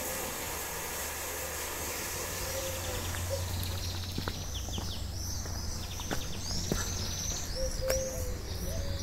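Small birds chirping in quick, repeated high notes that start a couple of seconds in, with a few short, low cooing notes, over a steady low rumble and a few light clicks.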